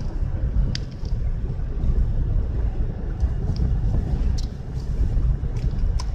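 Car driving on a snowy road, with a steady low rumble of road and engine noise heard inside the cabin and a few light ticks.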